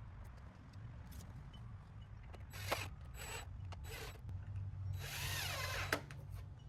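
Power drill driving screws into wooden fence planks: three short bursts, then a longer run of about a second whose pitch wavers, ending in a sharp click.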